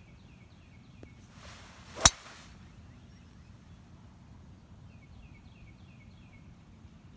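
Golf swing: the club swishes through the air and strikes the ball with one sharp, loud click about two seconds in.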